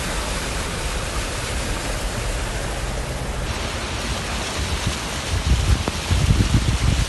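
Steady hiss of rain and wind in a storm. From about five seconds in, gusts buffet the microphone with low rumbles.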